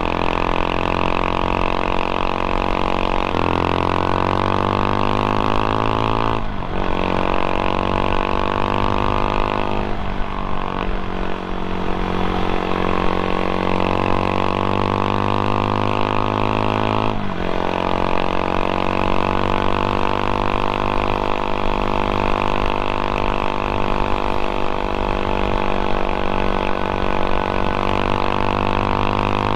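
CFMOTO Papio SS 126cc single-cylinder four-stroke engine running under way, its pitch climbing as it pulls in each gear, with brief breaks at gear changes about six and seventeen seconds in.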